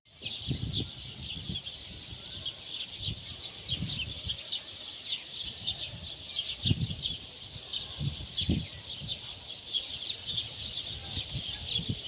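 A chorus of many small birds chirping without a break from the trees, with dozens of short, high chirps overlapping. A few soft low bumps sound underneath.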